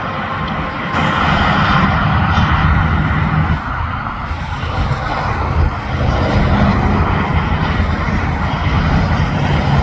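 Highway traffic with heavy trucks passing: tyre roar and low diesel engine drone, swelling as one passes about a second in and again from about six seconds in.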